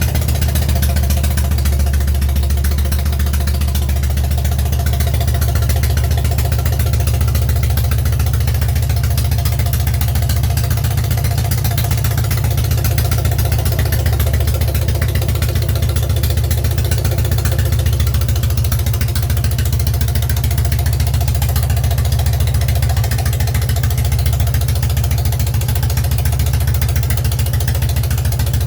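Freshly rebuilt K-750 side-valve flat-twin motorcycle engine running steadily at idle.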